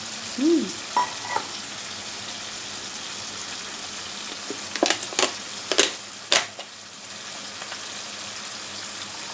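Tomato and ginger masala frying in oil in a pan, a steady sizzle, with a few sharp clinks against the pan about five to six and a half seconds in.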